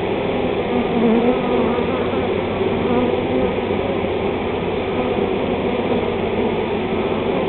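Honey bee swarm buzzing: a steady, dense drone of many bees in the air as the swarm moves into a new hive box.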